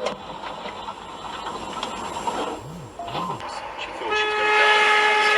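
Traffic and road noise, then a car horn sounds one long, steady honk starting about four seconds in.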